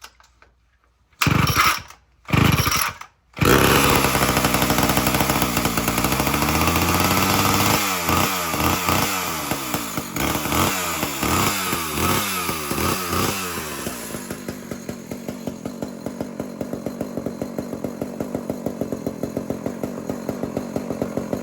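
Homelite Super XL two-stroke chainsaw being cold-started with choke and throttle lock set: two short bursts about a second in, then it catches and runs at high revs. The revs waver up and down, then drop to a steadier, quieter idle about fourteen seconds in.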